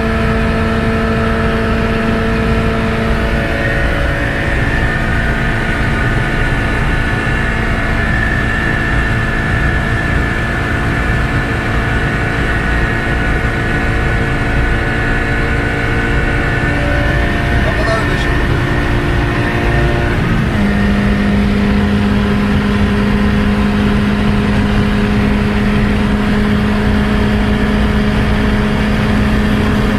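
Tofaş Doğan car driven at high speed: its engine holds a steady note over loud wind and road rush. The engine note shifts slightly twice, dropping a little in pitch about twenty seconds in.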